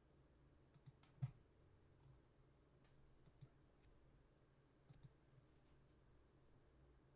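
Near silence with faint, scattered clicks from computer use, the loudest a little over a second in.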